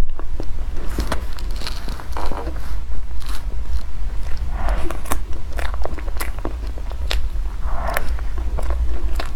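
Close-miked eating: biting and chewing food, with many short crackly clicks and wet mouth sounds over a steady low hum.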